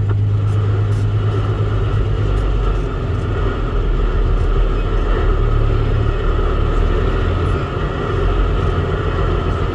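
Dump truck's diesel engine running, a steady low rumble heard from inside the cab.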